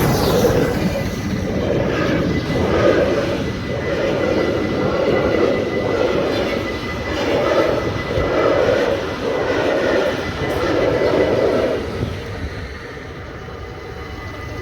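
A train passing a railroad level crossing, its running noise pulsing about once a second, then dropping away about twelve seconds in.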